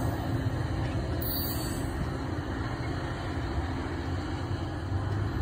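MARC commuter train hauled by diesel locomotives (an MP36PH-3C and a GP39PH-3C) pulling away: a steady low engine rumble with a hum, mixed with rolling noise.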